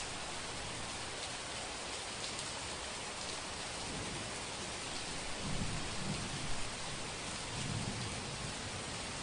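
Steady rain hissing, with a low rumble of thunder rolling in about four seconds in, swelling a few times, then dying away before the end.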